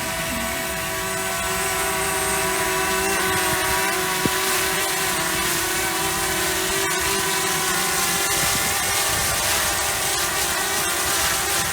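DJI Mavic Mini quadcopter's propellers buzzing with a steady high whine as it flies in close to land, with wind noise over it.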